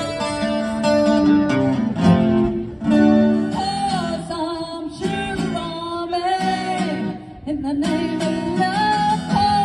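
Live band music: strummed guitar chords, with a voice singing a melody from about three and a half seconds in.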